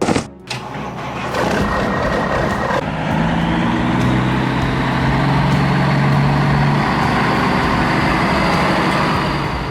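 Heavy truck engine sound effect running loudly and steadily, standing for the Lego monster truck's engine.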